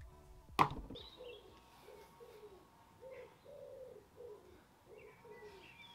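A bird cooing in a long run of low, evenly spaced notes, with faint higher chirps, and a single sharp knock about half a second in.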